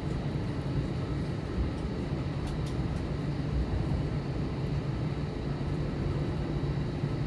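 Steady low rumble of an Airbus A321 cabin as the airliner taxis after landing, engines at idle and the airframe rolling, with a couple of faint clicks about two and a half seconds in.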